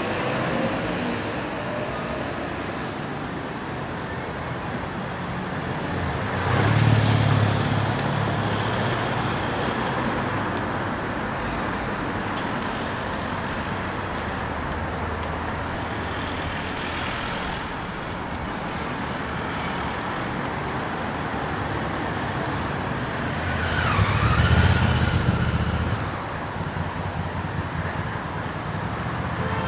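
Steady city street traffic, with two heavier vehicles passing close by, about a quarter of the way in and again near the end.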